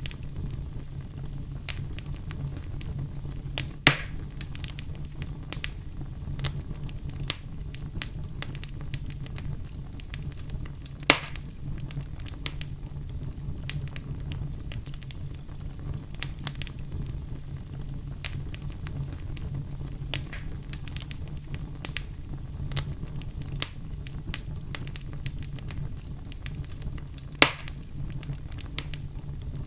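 Wood fire burning in a fireplace, crackling steadily over a low rumble, with three louder pops spread through it.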